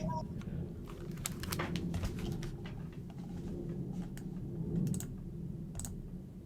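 Scattered, irregular clicks of typing on a computer keyboard over a steady low room hum.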